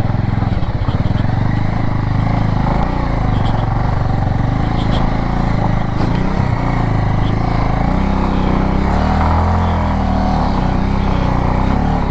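Bajaj Avenger 220 motorcycle's single-cylinder engine running under load on a rough climb, its pitch rising and falling with the throttle.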